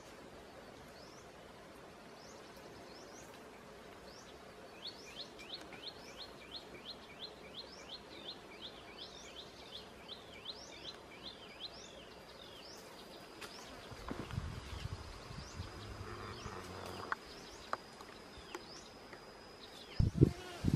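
Forest birds calling: a rapid run of short, high, sweeping chirps about three a second, then a thin high whistle held steady for several seconds, with scattered single chirps throughout. From about two-thirds in, branches and leaves rustle and two sharp twig snaps sound as someone climbs among them, and a few loud low thumps come at the very end.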